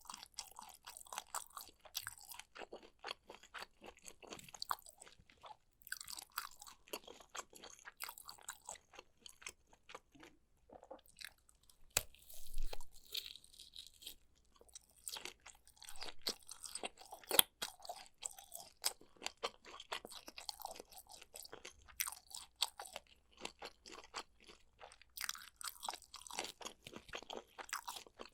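Close-miked eating of sea grapes and kielbasa sausage: rapid crackly crunching and wet chewing in bursts, with a louder bite about halfway through.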